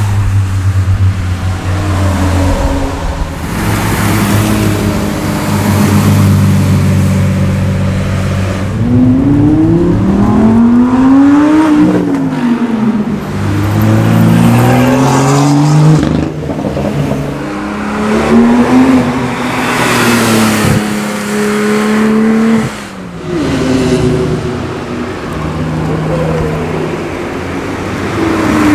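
Performance car engines driving past one after another, running loud, their pitch climbing and falling repeatedly as they rev and accelerate, with more than one engine heard at once.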